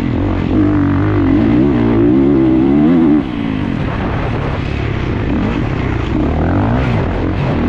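Dirt bike engine revving hard, its pitch rising and falling with the throttle, with a sudden drop in level about three seconds in as the throttle is chopped.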